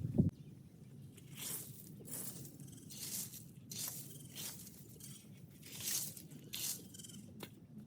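Dry cut branches and brush rustling and crackling as they are gathered up by hand, in a string of short rustles about a second apart.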